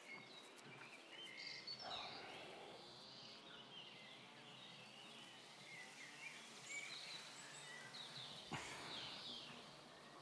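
Faint outdoor ambience with scattered light bird chirps, and a soft click about eight and a half seconds in.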